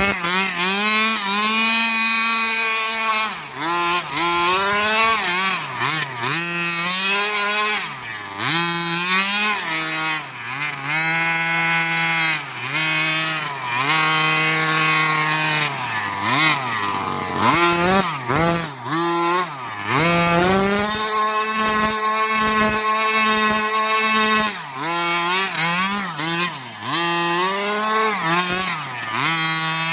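The 30cc two-stroke gas engine of a 1/5-scale Redcat Rampage XR rally car, fitted with a JetPro exhaust pipe, revving up and falling back over and over as the throttle is worked, dropping briefly toward idle a little past the middle.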